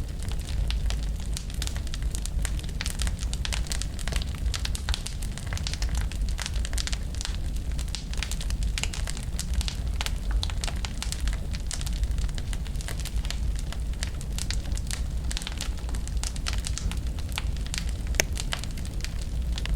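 Wood fire burning, with dense, irregular crackling and popping over a low steady rumble, and one sharper pop near the end.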